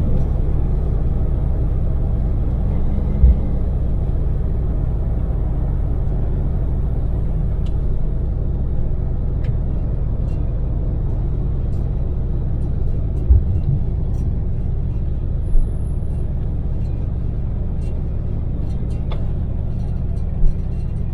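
Daewoo Damas microvan's small LPG engine and tyre noise heard inside the cabin while cruising: a steady low rumble, broken by four short low thumps.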